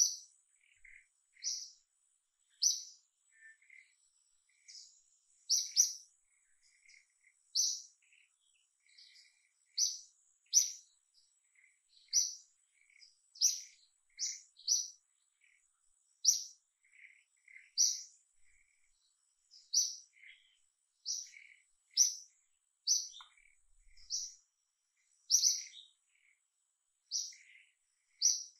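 A bird chirping over and over: short, sharp high notes about once or twice a second, with fainter lower notes between them.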